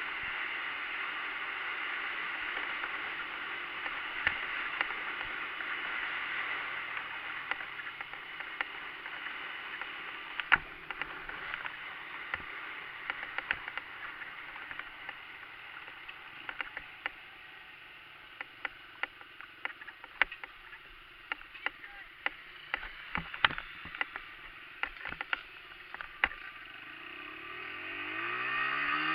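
A steady hiss with many scattered sharp clicks and knocks. Near the end a dirt bike's small engine revs up, rising in pitch and growing louder.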